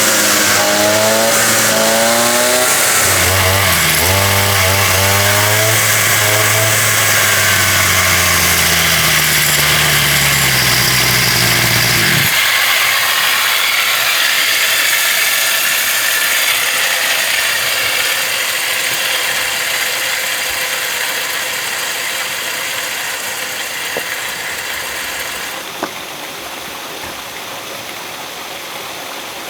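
A small engine running, its pitch rising and falling, then cutting off sharply about twelve seconds in. A steady hiss carries on after it and drops in level near the end.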